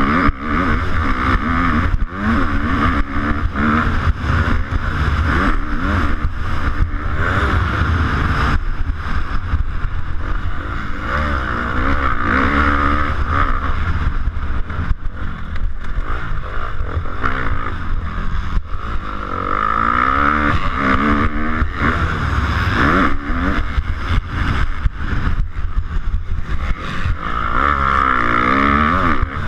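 250cc motocross bike engine heard up close, its revs rising and falling over and over as it is ridden hard, with a constant rumble of wind on the microphone.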